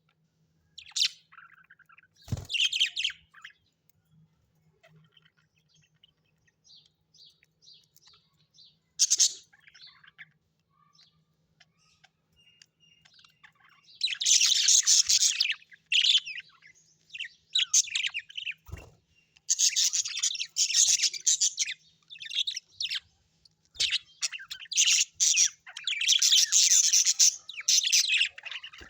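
Small birds chirping in short, scattered calls, then chattering almost without pause from about halfway through. There are a couple of soft thumps.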